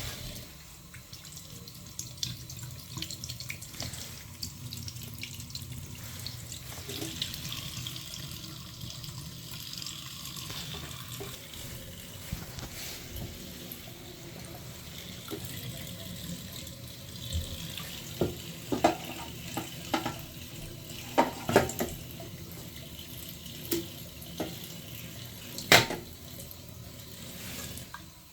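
Tap water running as a clogged boiler condensate trap is flushed out, with sharp knocks and clicks of handling in the second half, the loudest near the end.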